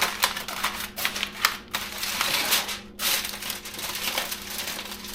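Aluminium foil crinkling and crackling as it is pressed and folded into a roasting pan, in a run of irregular crackles with brief lulls.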